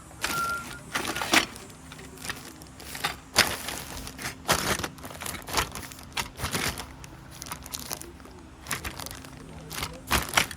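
Irregular rustling, crinkling and knocking of things being handled, over a faint steady hum.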